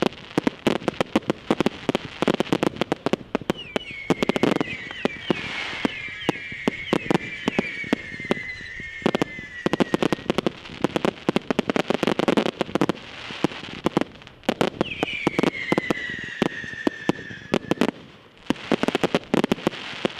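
Fireworks display barrage: rapid volleys of sharp bangs and crackling, with two spells of several high whistles sliding slowly down in pitch.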